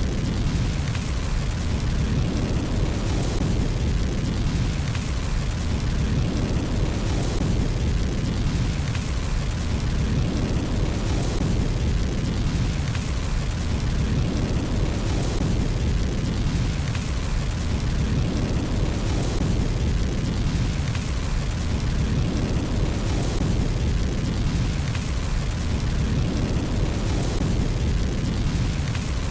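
Fireplace fire burning and crackling: a steady low rumble with hiss above it, the hiss swelling about every four seconds.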